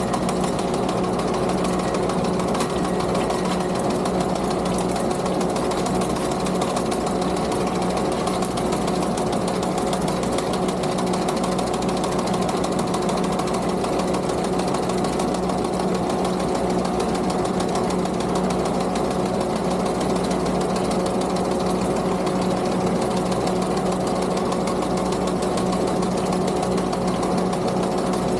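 Skid steer engine running steadily with the sickle bar mower's cutter bar clattering rapidly.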